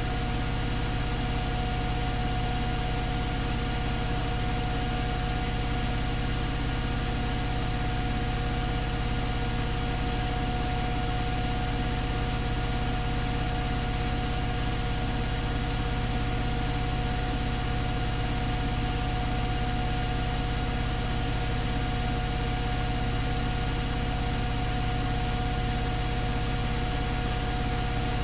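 ATLANT washing machine running with a steady hum and a few constant tones, which do not change in level or pitch.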